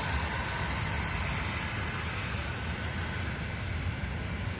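Passenger train on the move: a steady low rumble with a rushing noise above it, the rushing slowly dying away.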